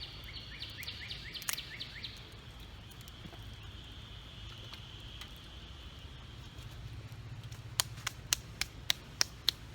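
A bird sings a quick series of repeated chirps over outdoor background for the first two seconds. Near the end come about six sharp pops, a few tenths of a second apart: sticks crackling as they burn in a wood-fired rocket stove.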